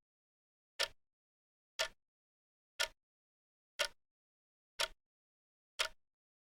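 Clock ticking sound effect: single sharp ticks, one per second, evenly spaced, with dead silence between them.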